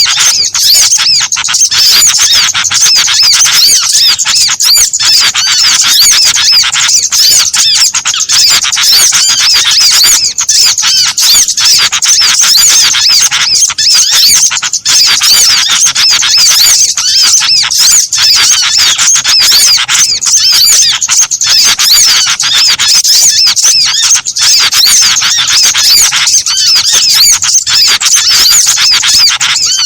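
Bird-lure recording of many small songbirds calling at once: a dense, unbroken chorus of rapid, high-pitched chirps and twitters.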